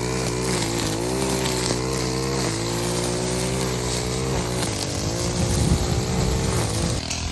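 Minibike's small engine running, its pitch rising and falling with the throttle, over a steady rushing hiss.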